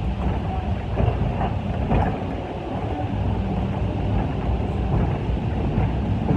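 Railway brake van rolling along the track with a steady low rumble and a few light knocks and rattles.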